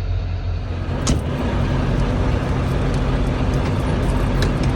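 Heavy diesel truck engine idling steadily, with a sharp click about a second in.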